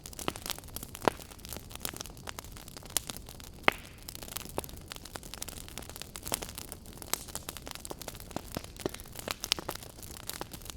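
Fireplace fire crackling: irregular sharp pops and snaps over a low steady rumble of the flames, the loudest snaps about a second in and just under four seconds in.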